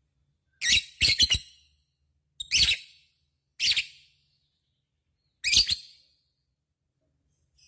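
Lovebird giving short, sharp, high calls in separate bursts, about five over several seconds, one a quick run of three about a second in.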